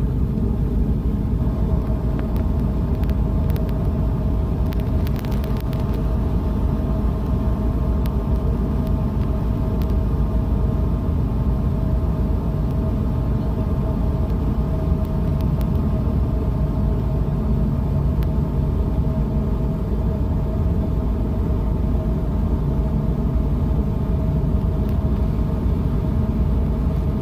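A vessel's engine running steadily: a constant low rumble with a steady droning tone on top, and a few faint clicks about four to six seconds in.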